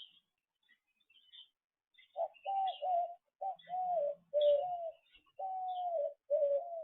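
A bird giving a run of about nine short, low, clear notes, each dipping slightly in pitch, about two a second, starting some two seconds in. Faint high chirps from small birds sound throughout.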